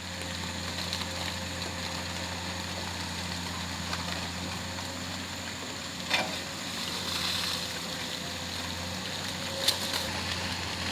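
Excavator's diesel engine running steadily, with two sharp knocks, about six and about nine and a half seconds in.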